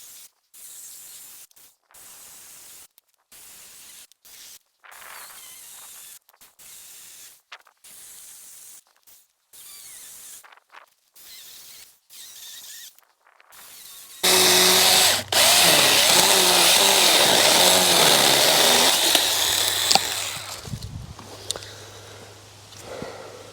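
Small 42-volt cordless battery mini chainsaw cutting into a roughly 6-inch stump, too big a job for the saw. It starts suddenly about two-thirds of the way in and runs loud for several seconds, its motor pitch wavering under load, then dies away near the end. Before it, only faint handling sounds.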